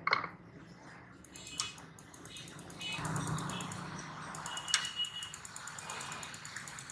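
Hand repair work on a gas water heater: sharp metallic clicks and knocks, the loudest right at the start and again near the middle, with stretches of rapid fine ticking in between.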